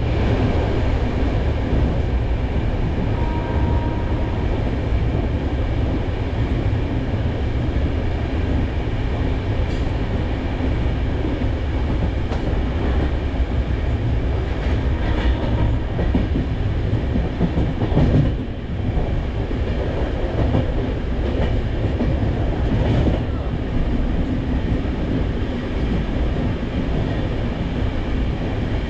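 Indian Railways express passenger train running at speed, heard from on board the coach: a steady rumble of wheels on the track with faint clacks, dipping briefly about two-thirds of the way through.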